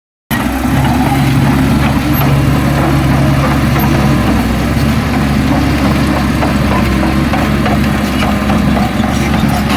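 Heavy diesel engine running steadily, starting abruptly just after the beginning; one of its low tones fades out about four seconds in.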